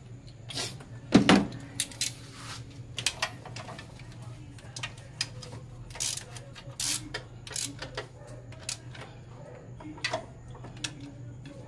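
Irregular metallic clicks and clinks of hand tools being handled while working on the engine, with one louder knock about a second in, over a steady low hum.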